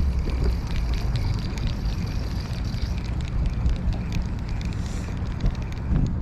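Wind rumbling on the microphone, with scattered small clicks.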